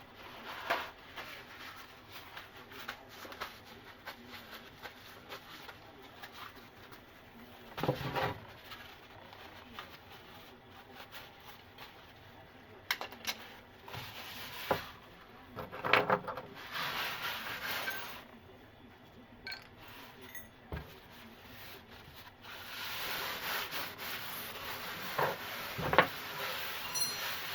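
Scattered knocks and clinks of plumbing parts and tools being handled under a bathroom sink, with stretches of scraping and rubbing. The sharpest knocks come about a third, two thirds and near the end of the way through.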